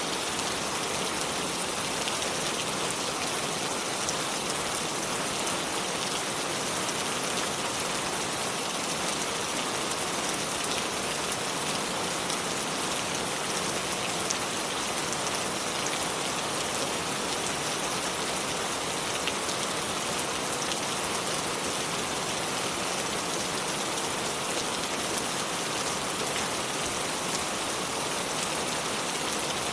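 River water flowing over stones: a steady, even rush of water with fine splashes.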